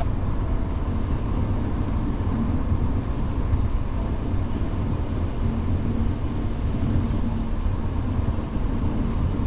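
Steady road noise heard from inside a moving car's cabin: engine and tyres running on a wet, pre-treated road, an even low rumble.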